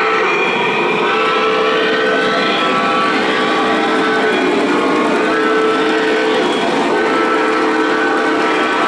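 O gauge model train's electronic sound system sounding a whistle of several tones in a series of long blasts, over the steady running noise of the train on the track.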